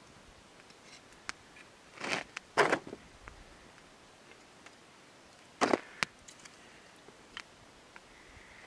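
Dry sticks and firewood being snapped and handled at a campfire: sharp cracks and knocks about two seconds in, again half a second later, and a pair near six seconds, with a few faint clicks between.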